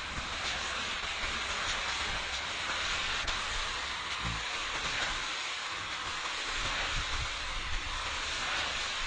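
Steady hissing noise with a low rumble underneath, holding an even level throughout.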